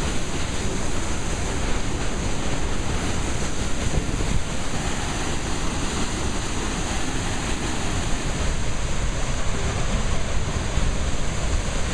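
Steady, loud rush of a waterfall's falling water, with wind rumbling on the microphone.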